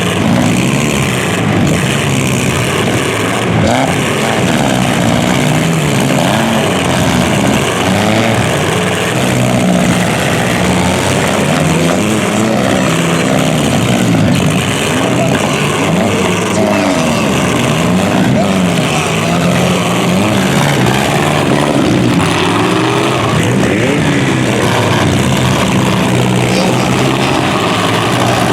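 Demolition derby cars' engines revving up and down over one another, loud and continuous, several engines at once.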